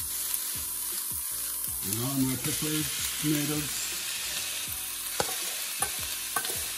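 Chopped onions and thyme sizzling steadily as they fry in an aluminium pot, with scattered clinks of a metal spoon against a steel bowl and the pot as chopped peppers and green onions are scraped in.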